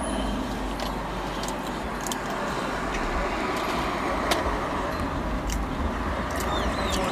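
A person chewing food with mouth closed, giving scattered soft clicks and smacks, over the low steady hum of a car idling.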